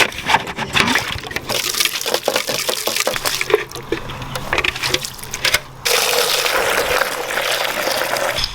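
Water from a hose running into a chick waterer as it is refilled, after a few light knocks of handling. The flow stops briefly about two-thirds of the way in and comes back stronger.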